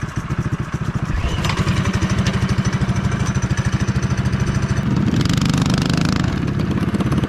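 Mini bike's small single-cylinder engine running under way with a fast, even pulsing beat, growing a little louder about a second in. A brief hiss rises over it around five seconds in.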